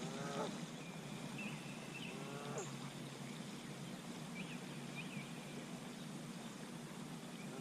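Faint, short, deep animal calls, three of them, each about half a second long with a bending pitch, spaced a couple of seconds or more apart. A few faint high bird chirps come between them.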